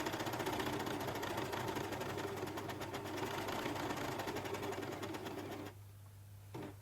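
Overlock machine (serger) running steadily, overcasting a fabric seam. It stops for under a second near the end, then starts stitching again.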